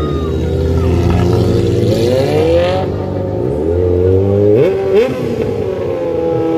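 Motorcycle engines revving up and down, with two quick sharp blips of the throttle about five seconds in, then holding at a steady high rev.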